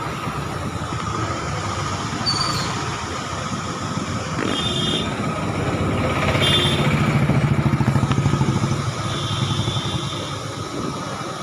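A motor vehicle, likely a motorcycle, passing over a steady background rush, loudest about seven to eight seconds in. Short high-pitched tones sound three times.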